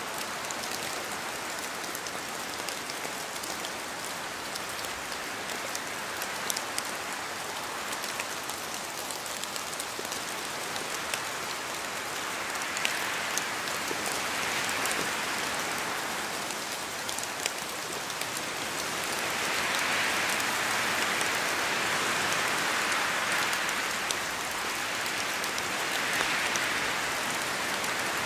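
Steady rain falling, with scattered close drops ticking and the downpour swelling heavier in waves through the second half.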